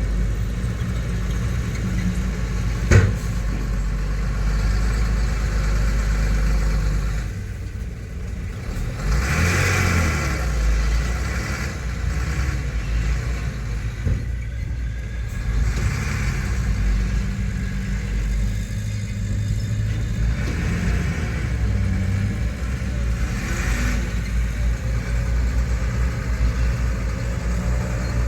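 Heavy diesel engine of earthmoving machinery running steadily, surging briefly about ten seconds in, with a sharp knock about three seconds in.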